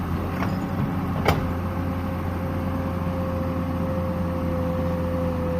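Excavator's diesel engine running steadily, with a thin steady whine above its hum and a single sharp knock about a second in.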